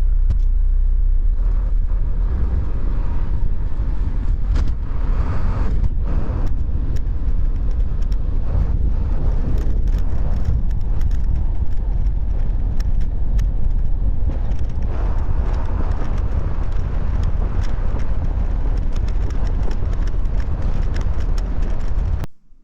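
2001 Isuzu FRR 7.8-litre turbo-diesel flatbed truck driving, a steady heavy low rumble of engine and road, with frequent small rattles and knocks. It cuts off suddenly near the end.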